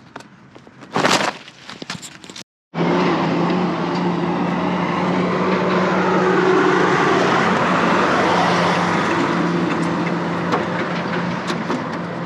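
Car driving: steady road and engine noise with a constant low hum. It begins suddenly about three seconds in, after a short stretch of faint handling sounds.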